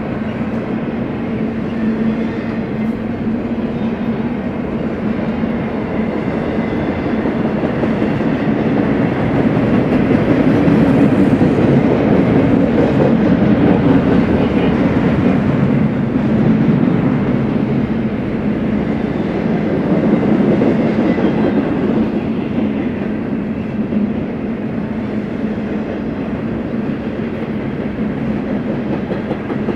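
BNSF freight train rolling past close by, its cars and wheels making a continuous rumble with some clickety-clack over the rail joints. A steady hum runs underneath, and the noise swells louder around the middle before easing off.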